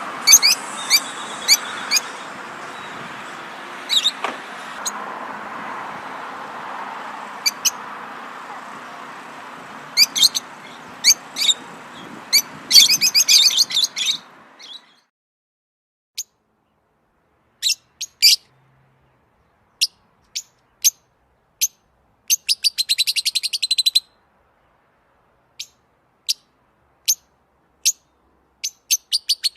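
Small songbirds chirping with short sharp notes and rapid trills, over a steady background hiss that cuts off suddenly about halfway through, leaving the chirps on silence.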